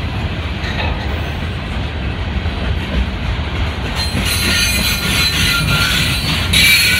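Freight cars of a long mixed freight train rolling past on steel rails: a steady low rumble, joined from about four seconds in by a high-pitched squeal of wheels against the rail that grows louder near the end.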